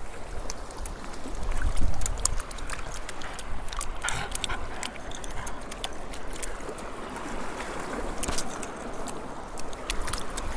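Water splashing and sloshing: a continuous run of small splashes and drips, with a stronger splash about two seconds in, over a low rumble.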